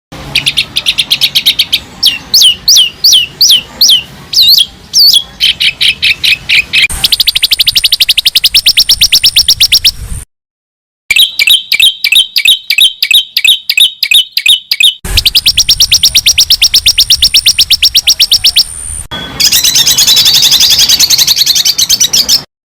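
Recorded songbird calls spliced together as a masteran track for teaching song fills to a caged songbird. It begins with a string of fast downslurred whistles, then moves through rapid trills and chattering in clips that start and stop abruptly. There is a short silent gap about ten seconds in.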